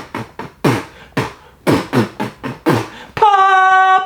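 Vocal-percussion beats, about two a second, each with a falling low thump, followed near the end by a woman's steady held sung note.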